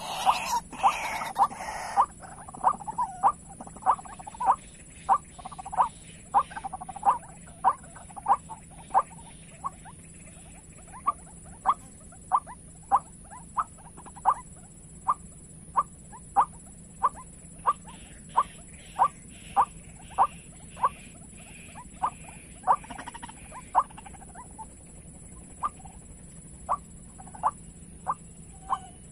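White-breasted waterhen calls: short harsh notes repeated evenly, about one and a half to two a second, with a brief break near the end.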